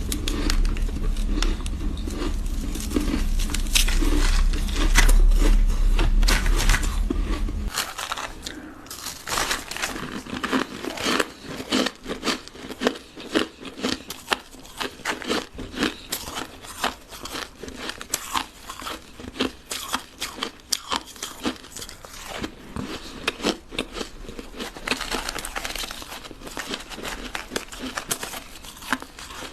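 Ice being bitten and chewed close to the microphone: a long run of sharp, separate crunches. For the first several seconds a low hum and dense crinkling run under it, then they cut off suddenly.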